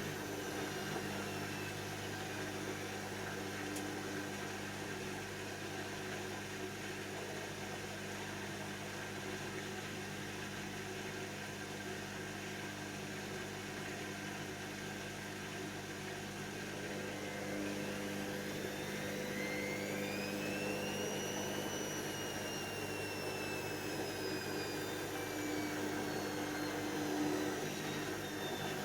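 Hoover DYN7144XD1 washing machine running with a steady hum. About two-thirds of the way through, a motor whine rises over a few seconds, then slowly falls away.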